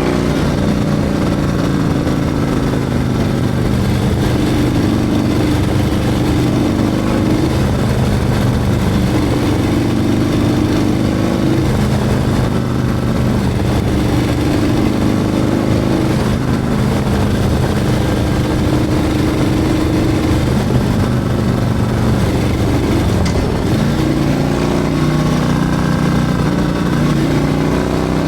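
Harley-Davidson Milwaukee-Eight 114 V-twin with a Screaming Eagle 447 torque cam, running under way. Its engine note holds steady for a couple of seconds at a time, then shifts up or down as engine speed changes.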